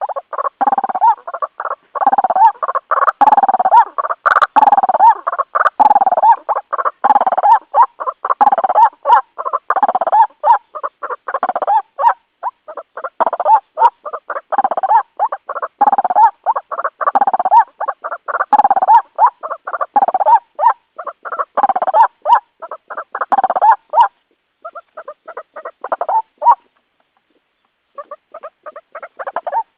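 White-breasted waterhen (ruak-ruak) calling: rapid, repeated call notes in a dense, unbroken series that breaks into shorter bursts with a brief pause near the end.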